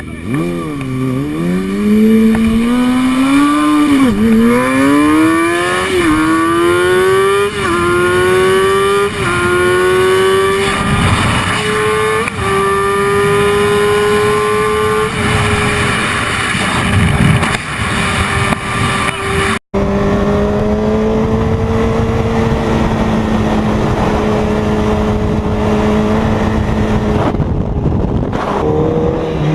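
Motorcycle engine accelerating hard, its pitch climbing and dropping back with each upshift through the gears, six or seven shifts coming further apart. It then holds a steady pitch at cruising speed, and after a short cut about two-thirds of the way through, an engine runs on steadily.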